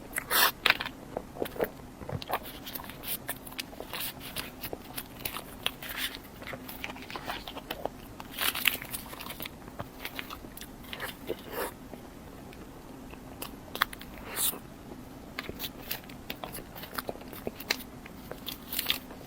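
Close-miked eating: crunchy bites and chewing, many short irregular crunches one after another.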